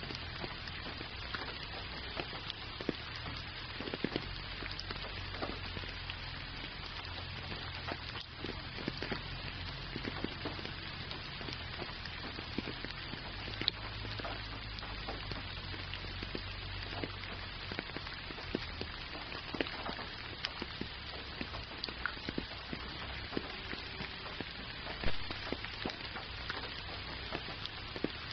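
Gentle rain falling steadily: an even hiss with scattered drops ticking close by, one a little louder near the end.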